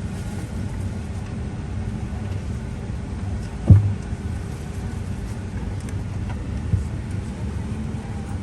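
Steady low rumble inside a Boeing 777-300ER's cabin, parked before departure. A single heavy thump comes about three and a half seconds in, and a lighter one about three seconds later.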